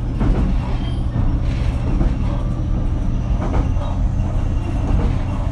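Interior running noise of a JR Kyushu BEC819 series battery-electric train car: a steady low rumble as it travels along the line.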